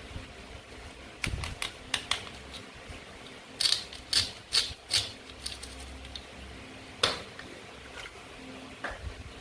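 Toy fruit and vegetables being cut with a toy knife: sharp clicks and taps. There are a few light clicks about a second in, then a quick run of about five sharper taps in the middle, and one sharp click near the end.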